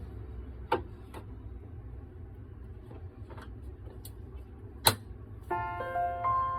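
Several sharp clicks and knocks over a low steady hum, the loudest about five seconds in. Gentle piano music starts near the end.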